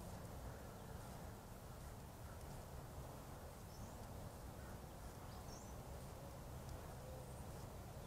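Faint outdoor ambience: a steady low rumble with a few short, faint high chirps scattered through it.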